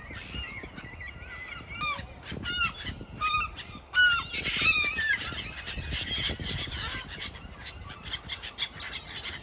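Birds calling: a run of short, repeated harsh calls from about two seconds in, followed by a busier overlapping chorus of calls.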